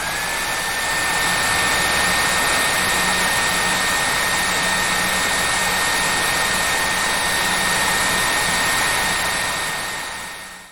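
Hair dryer running steadily: a loud rush of air with a high motor whine. The whine rises and settles just after the start, and the sound fades out near the end.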